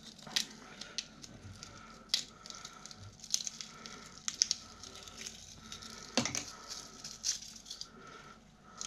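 Irregular small clicks and snips with light rustling as wire cutters cut and pull the copper winding wire out of a desk fan motor's stator.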